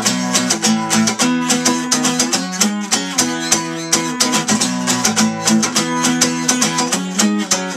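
Acoustic guitar strummed in a steady rhythm, playing an instrumental passage between sung lines of a song.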